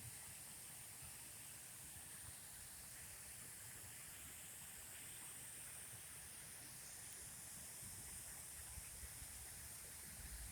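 Faint, steady rush of running water, with an even high hiss over it.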